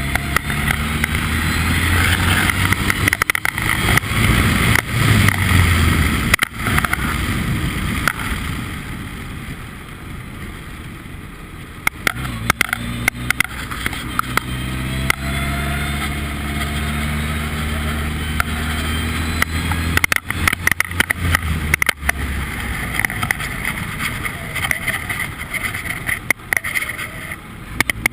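Formula Ford race car engine running hard at speed, its revs rising and falling with gear changes and many short sharp clicks over it. About a third of the way through the engine goes quieter for a few seconds, then builds up again.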